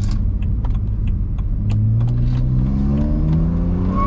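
BMW 135i's twin-turbo N54 inline-six, fitted with an aftermarket racing exhaust, heard from inside the cabin as the car accelerates; its note climbs steadily in pitch over the second half. Faint sharp ticks are heard throughout.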